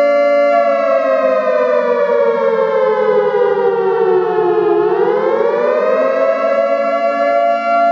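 Warning siren sounding a loud, steady two-note tone. Its pitch sags lower over about four seconds, then climbs back up about five seconds in and holds steady.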